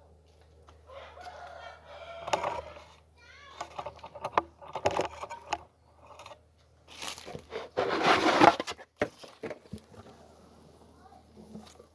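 Chickens clucking, with a rooster crowing, in the background. A loud rustling noise lasts about a second and a half, some seven seconds in.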